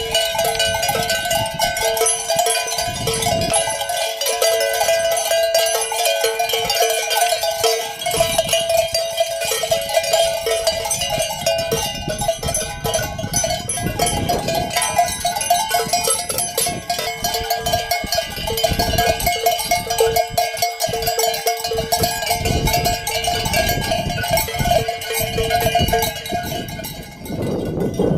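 Many livestock bells worn by a flock of sheep and goats, clanging and jangling continuously as the animals move.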